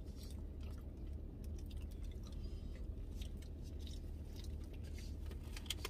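A person chewing a mouthful of barbecue beans close to the microphone, with small irregular wet clicks, over a low steady hum.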